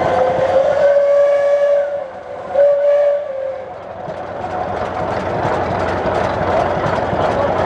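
Steam traction engine's whistle blowing twice: a long blast that stops about two seconds in, then a shorter blast, followed by steady mechanical running noise.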